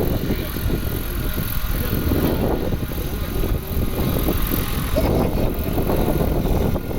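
Agricultural spraying helicopter flying, its rotor chop and engine running steadily.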